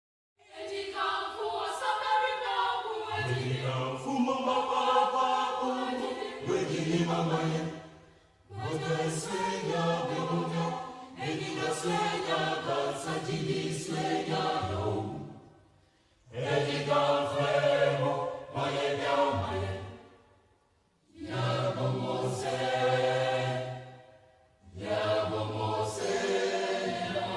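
A group of voices singing unaccompanied in a choir, in phrases a few seconds long with brief silences between them.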